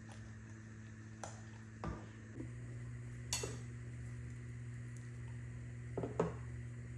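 Kitchen utensils and dishes clinking and knocking, six or so separate strikes, over a steady low hum that gets louder about two and a half seconds in.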